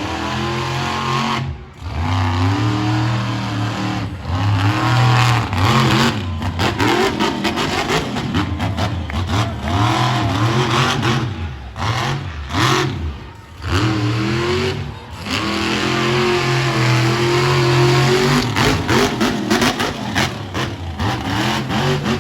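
Monster truck engine revving hard in repeated bursts, the pitch climbing and falling with the throttle, with several brief cut-outs between bursts.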